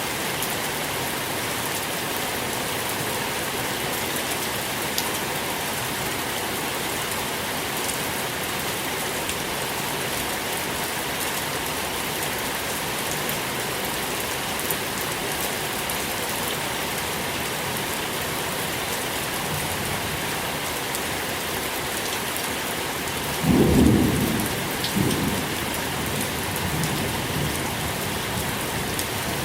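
Steady rain falling, an even hiss. About three-quarters of the way through, a low rumble of thunder swells up suddenly, becomes the loudest sound, and fades over a few seconds.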